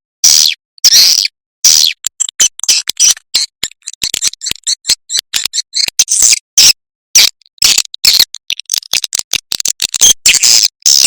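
Swiftlet lure recording: swiftlets twittering in rapid, high-pitched chirps and clicks, with a few longer buzzy trills. The recording is a call and roost sound played to draw swiftlets into a nesting house.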